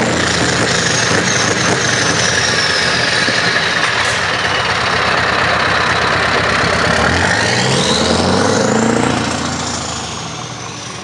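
Straight-piped Scania V8 truck engine running loud as it passes. About seven seconds in, it revs up with a climbing pitch, then the sound fades away.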